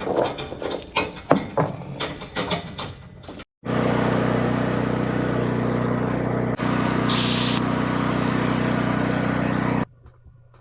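A few irregular knocks and rattles, then a pickup truck engine running steadily, with a brief hiss about seven seconds in.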